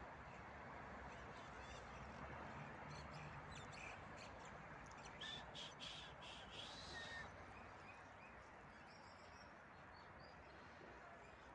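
Faint outdoor background hum, with a few short bird calls, like crows cawing, about five to seven seconds in.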